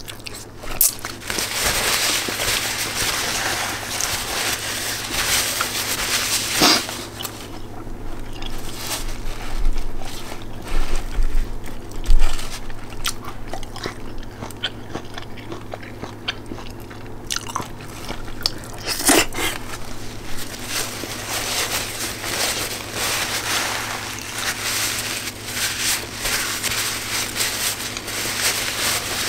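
A person chewing and biting food from a seafood boil, with many small sharp clicks and two louder ones about seven and nineteen seconds in.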